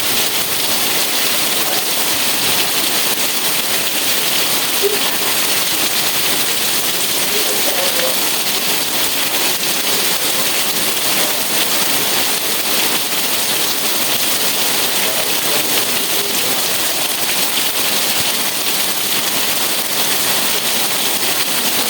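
Steady rain with wind: an even, dense hiss of falling drops that does not let up.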